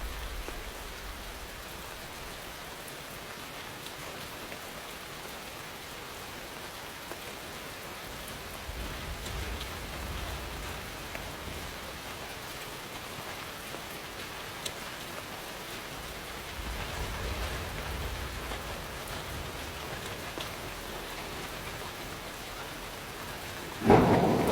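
Steady rain falling, with two spells of low rumbling from distant thunder, about 9 and 17 seconds in. Just before the end a loud thunderclap breaks in suddenly.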